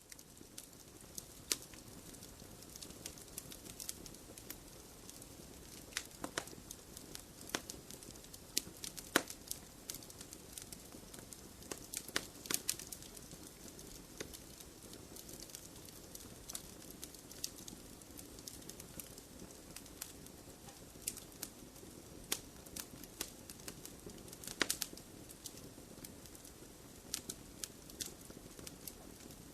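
Wood fire crackling in a fireplace: irregular sharp pops and snaps, some louder than others, over a low steady rush of burning.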